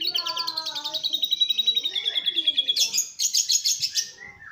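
Domestic canary singing a fast, tightly packed trill of rapid repeated notes in the style of a lovebird's song, switching to a higher, harsher run about three seconds in. In the first second a lower call sounds beneath the trill.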